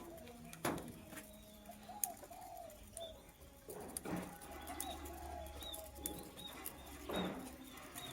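Pigeons cooing low in the background, with faint, quick high chirps from a lovebird over the last few seconds and a few brief rustles of movement.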